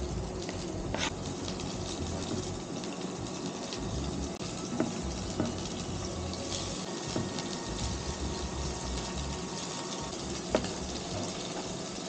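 Chopped greens sizzling in sesame oil in a pan on an induction hob, a steady frying hiss. A few light knocks of a utensil stand out, the sharpest about ten and a half seconds in.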